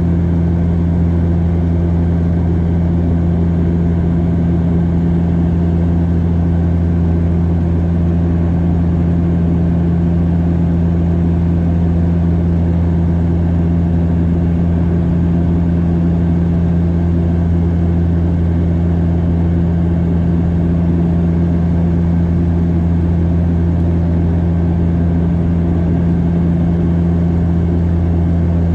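Steady drone of a Bombardier DHC8-Q400's turboprop propellers heard inside the cabin in flight: a loud, even low hum with a few steady higher tones above it.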